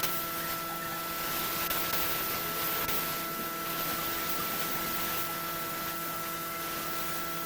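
Large wood lathe running, a steady motor hum with a constant hiss over it.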